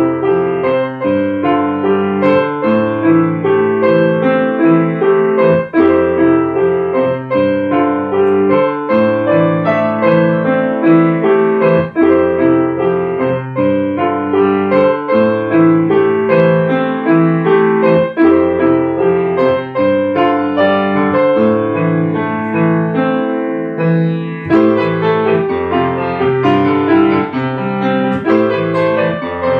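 Piano played continuously, with dense chords and quick runs of notes.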